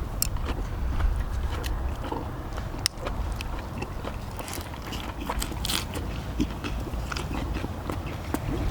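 People chewing and eating cheese dak-galbi, with scattered sharp clicks and smacks over a steady low rumble.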